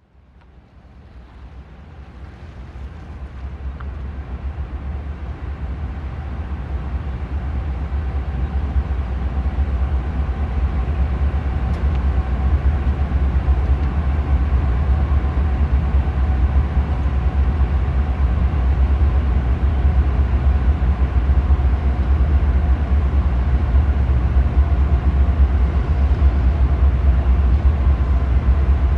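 Diesel locomotives of a CSX freight train approaching, a deep steady rumble that grows louder over the first ten seconds or so and then holds at full level with the train close by.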